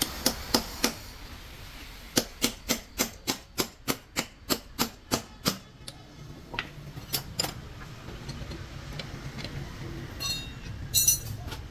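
A run of sharp knocks on metal during gearbox repair work. About a dozen come evenly at roughly four a second, then a few scattered ones follow, and a short ringing metallic clank comes near the end.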